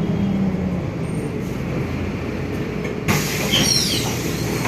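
Bus running with a steady low engine and road rumble. About three seconds in there is a sudden hiss of compressed air, with a few brief falling squeals in it.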